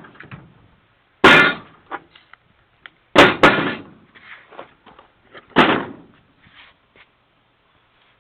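Four loud clanging impacts at uneven gaps of about two seconds, each with a brief ring, and a few lighter knocks between them: something hard being struck or dropped.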